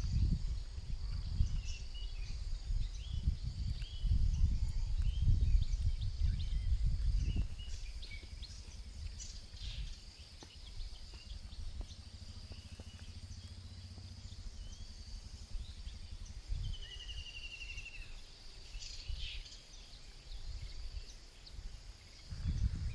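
Rural outdoor ambience: a steady high insect drone with scattered bird chirps and a short bird trill about two-thirds of the way through. A low rumble fills the first seven seconds or so.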